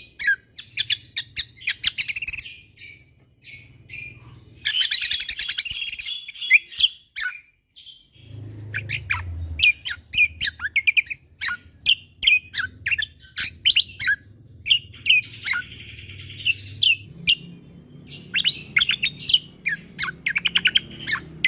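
Cucak kombo (kecial kombo) songbird singing in rapid-fire bursts: dense runs of sharp, quick chirps and whistles, with fast rattling trills about five seconds in and again near the end. A faint low hum runs underneath.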